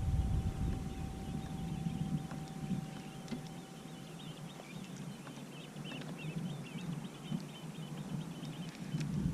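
Quiet outdoor ambience on open water: a low rumble that fades in the first second or two, faint high chirping, a few small scattered clicks, and a thin steady tone that stops about halfway through.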